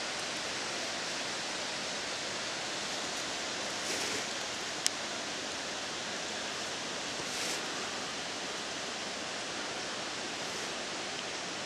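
Steady rushing noise, like running water or wind in the forest, with a single sharp click about five seconds in and two brief swells of hiss.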